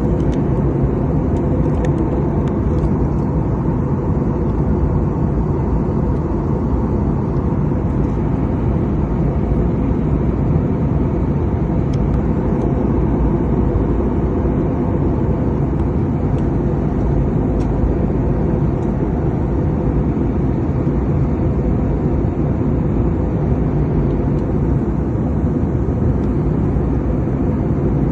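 Steady drone of an airliner cabin in flight: engine and airflow noise, loud and unchanging.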